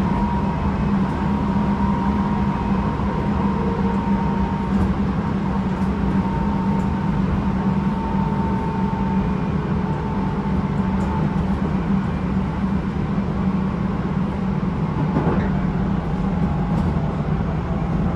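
Tobu 9050 series electric train heard from inside a motor car, running steadily along the line. There is a steady low hum from the motors and running gear, a faint wavering whine above it, a few light clicks, and the air conditioning running.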